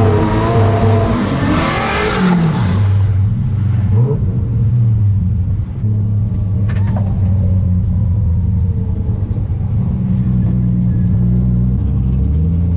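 Nissan 240SX's 1JZ straight-six engine revving hard, its pitch rising and falling for the first couple of seconds, then settling to a steady low running note.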